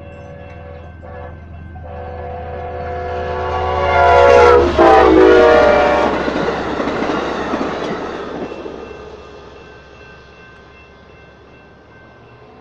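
Amtrak passenger train's horn blowing as the locomotive closes on a grade crossing, getting louder, its pitch dropping as it passes about five seconds in. Then the rumble and clatter of the passing train, fading away, with the crossing's electronic bell ringing faintly.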